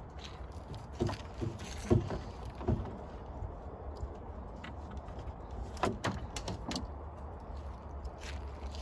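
A few short knocks and clunks of gear being handled, in a cluster about a second in and another near six seconds, over a steady low rumble.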